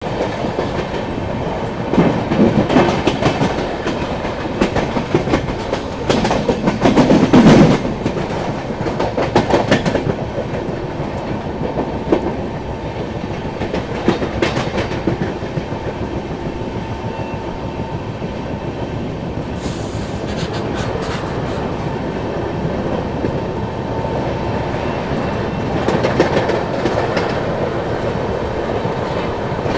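Passenger train running at speed, its wheels clattering over rail joints and points in a continuous rumble, heard from an open coach doorway. Louder bursts of clatter come at a few seconds in, around seven seconds and around fourteen seconds.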